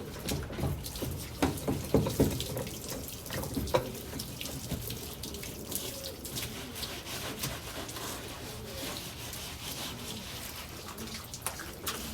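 Water from a hose splashing and running on the floor of a pigeon yard being washed down, with a burst of irregular splashing in the first few seconds, then a steadier flow.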